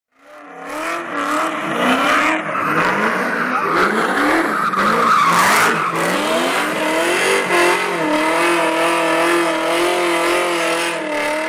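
Camaro Z28's built 383 stroker V8 revving hard through a burnout and donuts, with tires squealing. For the first half the engine's pitch swings up and down again and again; from about halfway it is held high and fairly steady.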